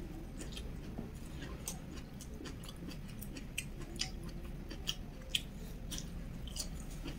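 Chewing a mouthful of stir-fried kailan (Chinese broccoli) greens, with short sharp mouth clicks at an irregular pace, about two a second.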